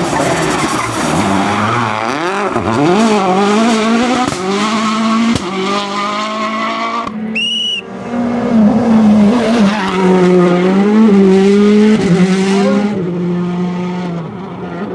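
Rally car engine revving hard, its pitch rising and dropping repeatedly through gear changes, with tyres squealing. A short, high-pitched beep sounds about halfway through.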